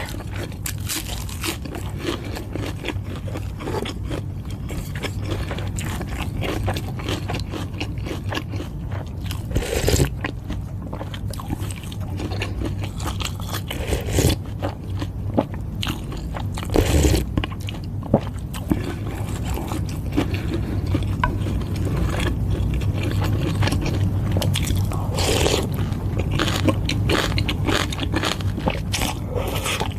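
Close-miked eating sounds of Thai boat noodle soup being eaten: steady chewing with utensils scraping the bowl, and a few louder bites standing out.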